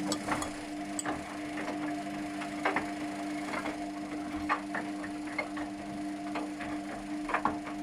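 Luxor WM 1042 washing machine running its rinse: a steady motor hum with a low drone, broken by irregular light clicks and knocks.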